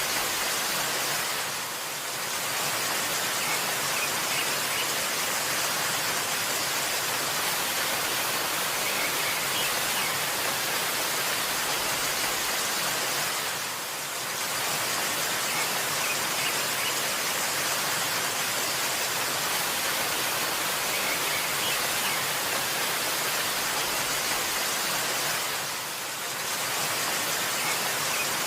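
Waterfall: a steady, dense rush of falling water. It softens briefly about every twelve seconds as the recording loops.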